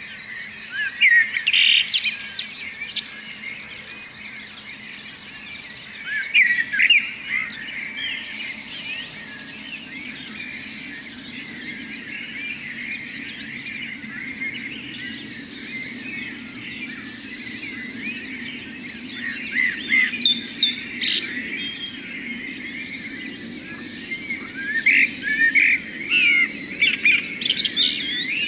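A morning chorus of several songbirds singing, with overlapping chirps and trills and louder bursts of song every few seconds, over a faint steady background hum.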